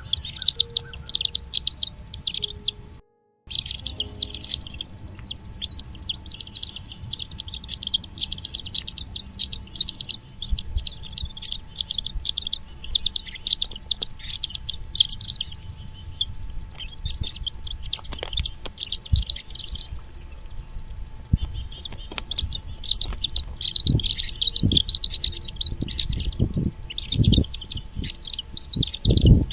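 Birds at a nest chirping continuously in quick, high-pitched notes. There is a brief dropout about three seconds in. Low thumps and rumbles come in during the second half.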